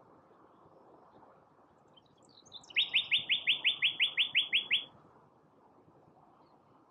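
Male yellow-breasted chat singing its territorial song. About two seconds in come a few scattered high notes, then a fast run of about a dozen identical notes, some six a second, lasting about two seconds.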